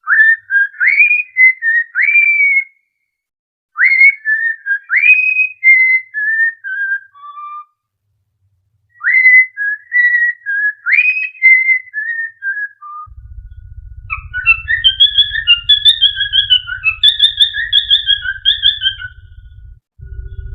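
A whistled melody in three short phrases separated by brief pauses, each made of quick upward-swooping notes, played as a training tune for cockatiels. About two-thirds of the way in, a low hum comes in under a busier, chirpier whistling that runs to the end.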